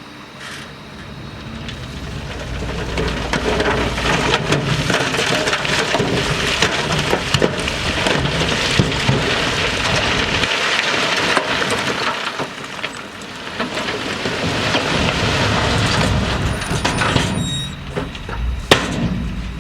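Rock and dirt being moved by heavy earthmoving machinery: a dense rushing clatter of tumbling stones with many sharp knocks, over a low diesel engine rumble. It builds over the first few seconds, eases briefly about two-thirds of the way through, then swells again.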